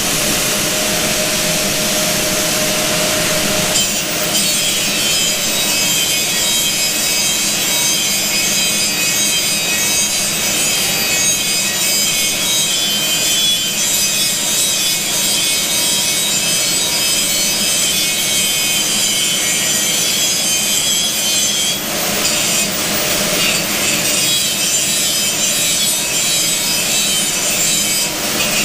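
A power grinder grinding paint off steel, running loudly and continuously with a bright, high-pitched ring, its tone shifting about four seconds in and again about twenty-two seconds in as the pressure on the work changes.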